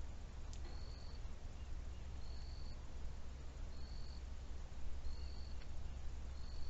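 A small animal's short, high call note repeated five times, about once every second and a half, over a steady low rumble.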